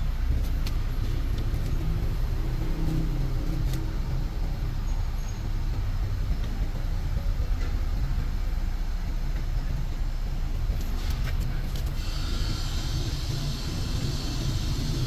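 Steady low mechanical rumble with a few light clicks; a hiss joins about twelve seconds in.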